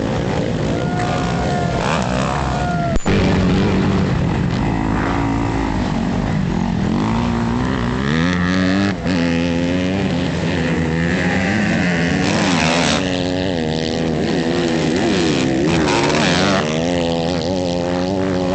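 Several motocross bikes running on the track at once, engines revving up and down as they ride and jump. A short sharp click about three seconds in.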